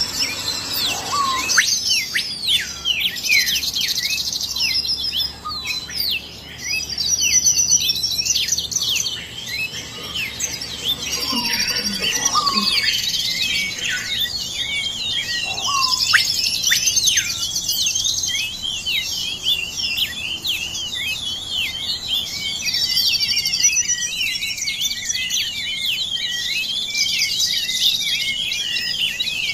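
Many birds chirping and trilling at once, quick high calls sweeping up and down and overlapping without a break.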